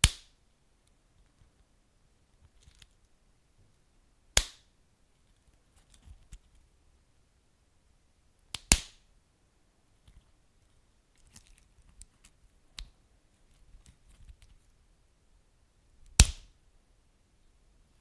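Wood fire crackling: sharp, loud pops from the burning logs about every four seconds, with smaller ticks and crackles in between.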